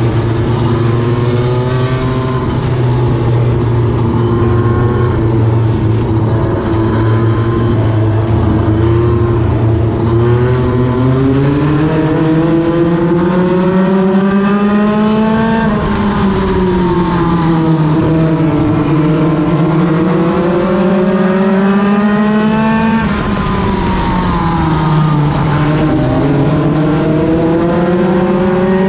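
NEMA Lite midget race car's engine running at racing speed on a short oval. The revs climb along the straights and drop sharply twice as the driver lifts for the corners.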